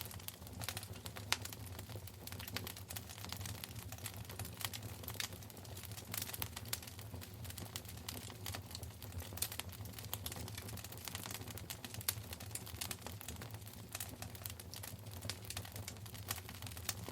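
Wood fire burning in a fireplace, crackling steadily with frequent irregular sharp pops and snaps over a low steady rumble.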